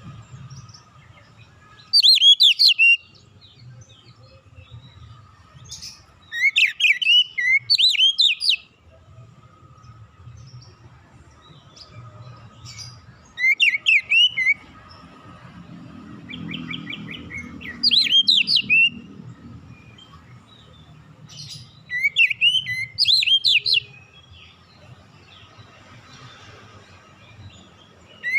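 Oriental magpie-robin (kacer) singing in about five separate bursts of quick, sweeping whistled and chattering notes, with pauses of a few seconds between them. Faint low hum underneath.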